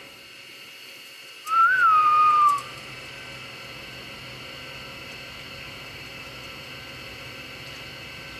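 A parrot's single whistle, about a second long: a clear note that rises briefly, then falls and levels off before stopping.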